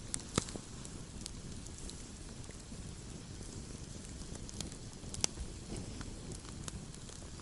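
Campfire crackling: a steady low rush of burning wood with scattered sharp pops, the loudest about half a second in and again a little after five seconds.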